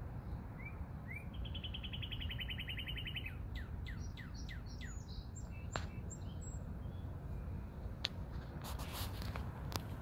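A songbird singing: two short rising notes, then a fast high trill, then a quick run of down-slurred notes. A few sharp clicks come near the end, over a steady low rumble.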